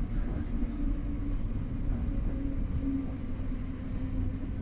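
Steady rumble of a moving passenger train heard from inside the carriage, with a faint low hum running under it.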